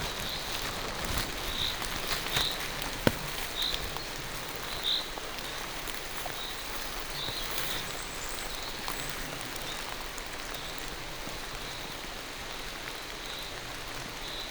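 Steady rain falling through a forest, with scattered drops tapping nearby and one sharper tap about three seconds in.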